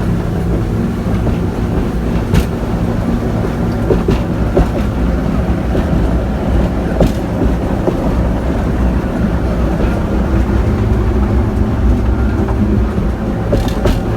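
Boat engine running steadily while under way, a continuous low drone, with a few sharp knocks.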